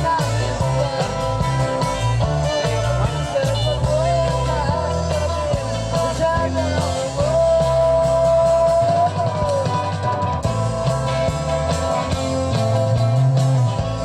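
Live rock band playing amplified guitars, bass and drums, with singing. About halfway through, a lead line holds one long high note that bends into it and drops away at the end.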